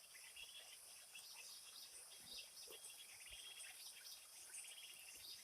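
Faint forest ambience: a steady high-pitched drone of insects with scattered short bird chirps, and a rapid insect trill about three seconds in.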